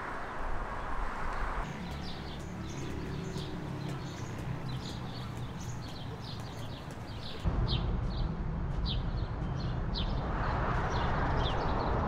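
Small birds chirping repeatedly, many short high chirps a second, over a steady low outdoor background rumble.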